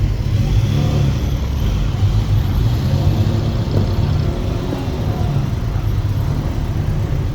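Ferrari 512TR's flat-twelve engine running as the car drives off, a steady, low engine note with no sharp revs.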